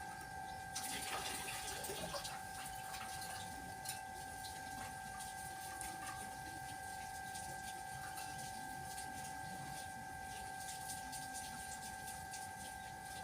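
Gently running water, with a steady high hum held throughout and scattered light clicks.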